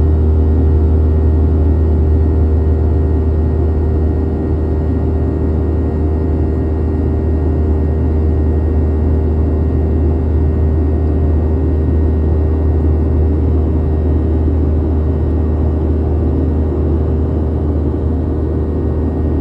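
Boeing 737-800's CFM56-7B jet engines running steadily: a constant loud drone with a deep hum and a few steady tones, no rise or fall in thrust.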